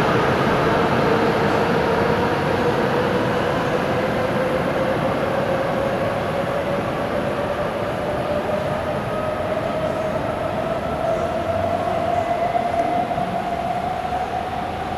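E7/W7-series Shinkansen train pulling out of the station: a broad rumble with the whine of its traction motors rising steadily in pitch as it accelerates away, slowly fading.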